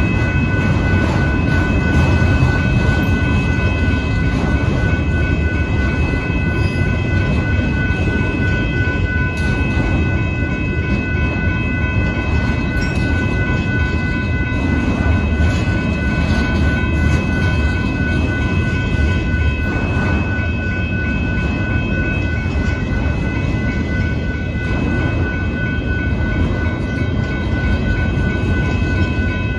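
Freight train of autorack cars rolling steadily through a grade crossing: a continuous low rumble of wheels on rail, with a steady high ringing tone over it that fits the crossing bell.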